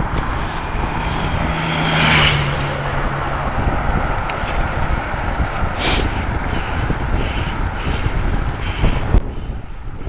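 A car passing close by, its engine hum swelling about two seconds in and dropping slightly in pitch as it goes by, over steady wind buffeting the microphone.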